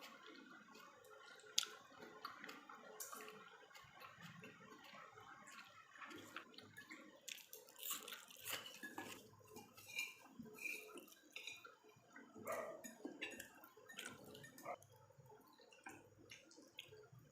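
A person eating pork close to the microphone: quiet wet chewing and mouth sounds with many small irregular clicks, and one sharp click about a second and a half in.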